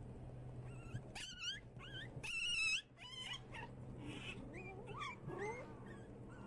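Puppies giving high-pitched yips and whines: a handful of short wavering calls, the longest and loudest about two and a half seconds in.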